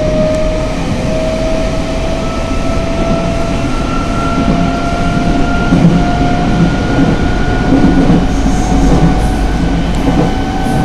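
Nankai 8000 series electric train running, with a motor whine that rises slowly in pitch as it gathers speed, over a steady rumble of wheels on the rails.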